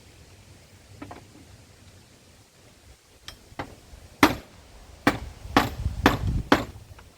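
A series of sharp knocks: a few light taps, then five loud blows about half a second apart, like hammer strikes.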